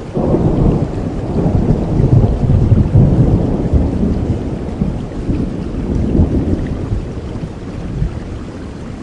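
Rolling thunder over steady rain: a loud, low rumble that builds in the first seconds, peaks about two to three seconds in, then slowly dies away.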